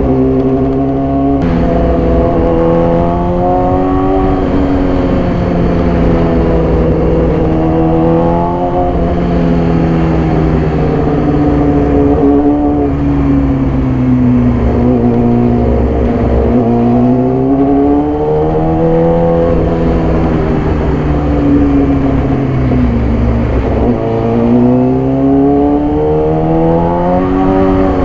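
2014 Yamaha YZF-R6's inline-four engine through an SC-Project exhaust, under way. The engine note climbs and falls repeatedly, each swell lasting several seconds, with a few abrupt steps in pitch.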